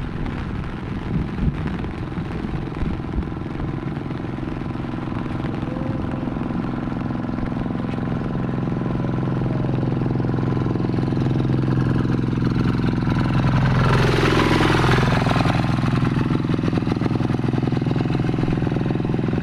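An engine running steadily, growing louder toward a noisy swell about two-thirds of the way through, where its pitch dips and comes back up.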